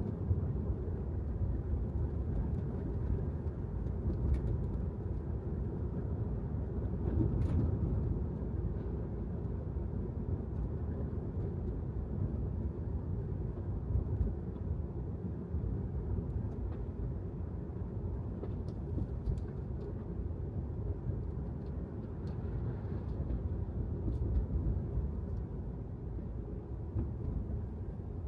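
Steady low road rumble of an electric Tesla Model 3 driving, the tyres and suspension making the noise with no engine sound, broken by a few faint clicks.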